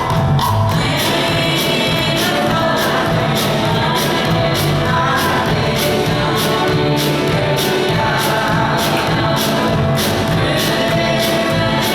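Church congregation and band playing a gospel song, with singing over a steady drum beat.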